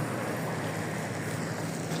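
LiAZ 5292.65 city bus with a Yuchai engine running, heard from inside the passenger cabin as a steady engine hum under a constant rush of noise.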